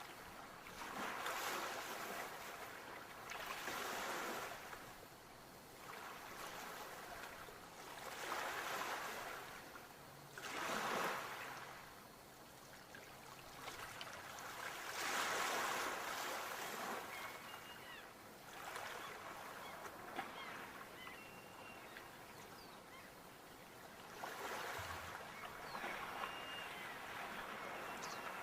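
Ocean waves breaking and washing up the shore, each surge swelling and falling away every few seconds, with a quieter lull about two-thirds of the way through.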